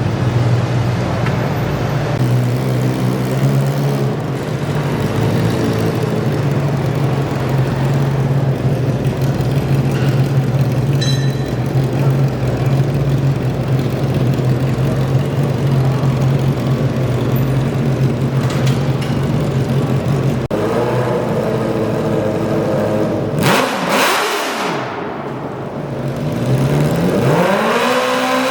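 Garden tractor engine running at steady revs for about twenty seconds. Then the revs change, fall away sharply about three-quarters of the way through, and climb again near the end.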